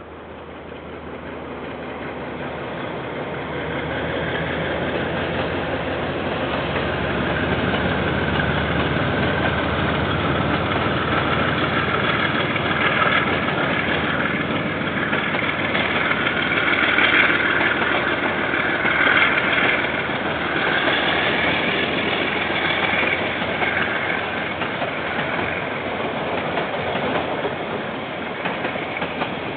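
KiwiRail diesel freight train approaching and passing: the locomotive's engine rumble builds over the first few seconds, then gives way to a steady rush of wheel and rail noise from the passing wagons.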